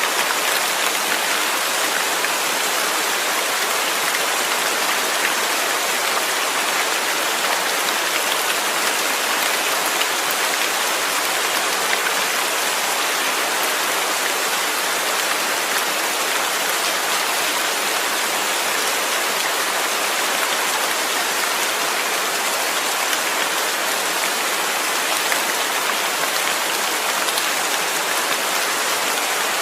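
Steady rain falling and pattering on a surface, a dense even hiss with fine drop spatter that keeps the same level throughout.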